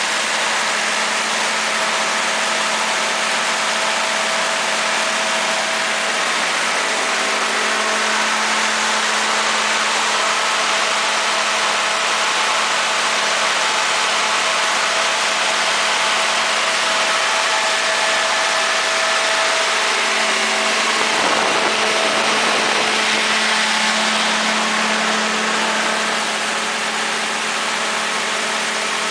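Cummins NTA-855-G2 turbocharged six-cylinder diesel of a Cummins/Onan 300 kW generator set running at a steady speed with a loud, even hum and hiss. A little past two-thirds through, the sound briefly wavers and shifts.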